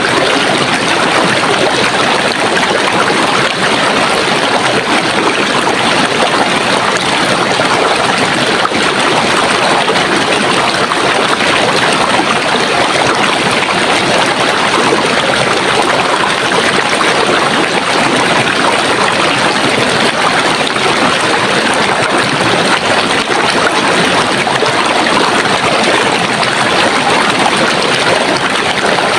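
Running water, like a flowing stream, splashing and trickling in a steady, unbroken rush.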